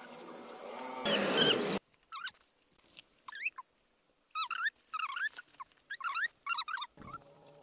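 Small birds peeping in quick bursts of short, high chirps that bend up and down in pitch. The opening is a different, noisier sound that swells into a loud rush and then cuts off suddenly about two seconds in.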